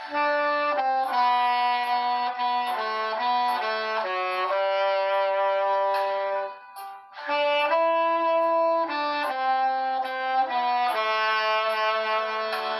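Tenor saxophone playing a melody of long held notes over a backing track with a light hi-hat beat. There is a short breath pause between phrases about halfway through.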